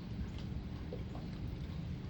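Steady rain falling, with a constant low rumble beneath it and a few faint scattered ticks of drops.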